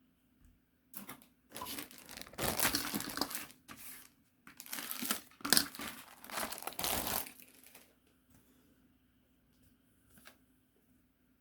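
Model kit packaging crinkling as it is handled, in several bouts over about seven seconds, then a single faint tick near the end.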